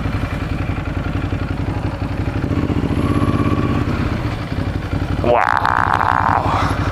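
Yamaha R6 sport bike's inline-four engine running steadily at low speed in city traffic. About five seconds in, a brief higher-pitched sound rises and holds for about a second.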